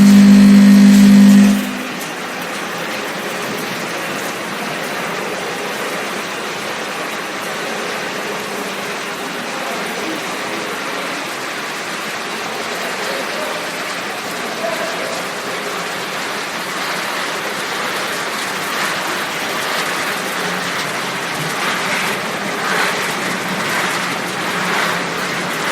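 Machinery of a puffed-snack extrusion production line running: a loud, steady low hum for the first second and a half that cuts off suddenly, then an even mechanical whir and rush at a lower level.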